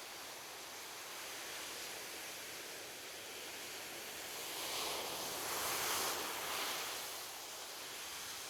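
Ocean waves washing on a beach: a steady surf hiss that swells as a wave breaks and runs up the shore about five seconds in, then eases back.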